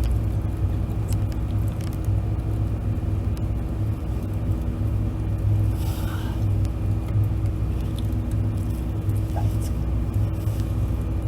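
Steady low rumble with a faint, even hum over it, and a few faint ticks.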